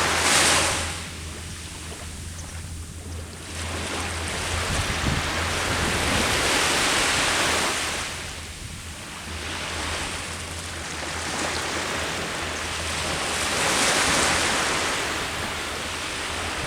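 Ocean surf breaking on the shore and washing back, swelling and fading about every six or seven seconds, with a low wind rumble on the microphone.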